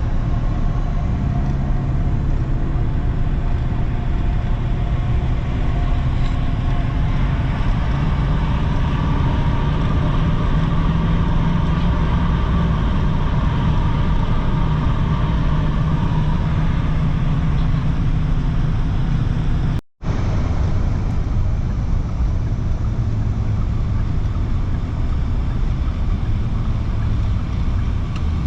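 Vehicle engine running steadily under way, with an unbroken drone. The sound drops out for an instant about two-thirds of the way through.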